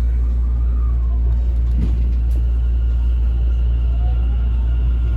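Steady low rumble of a Tokyo Metro 10000 series train running between stations, heard from inside the car. Faint thin whines sit above it, one falling about a second in and one rising near the end.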